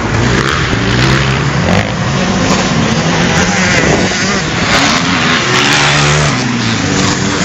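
Motocross bike engines revving, their pitch rising and falling with the throttle.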